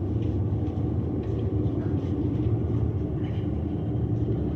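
Steady low rumble with a constant hum inside a moving Sandia Peak Tramway aerial cabin.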